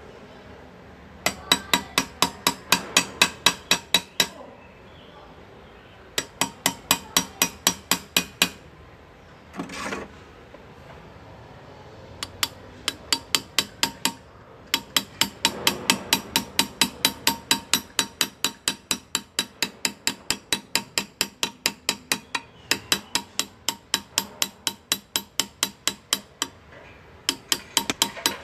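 Hand engraving: a small hammer tapping a steel graver into metal, sharp ringing taps at about four to five a second in several runs with short pauses between them. A brief hiss sounds once, about ten seconds in.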